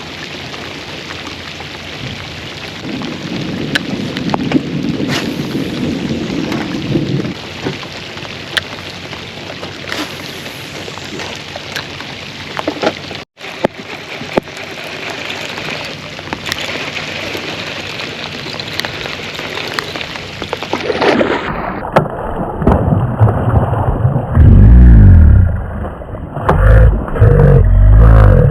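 Rain falling steadily: an even hiss scattered with many sharp drop taps. In the last few seconds, loud low rumbling blasts take over.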